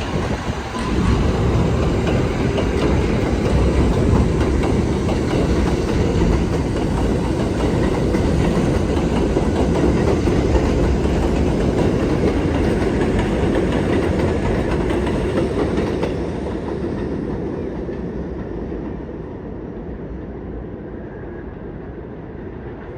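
New York City subway train running past on the elevated line, its wheels clattering over the rail joints; the sound holds steady, then fades away over the last several seconds as the train recedes.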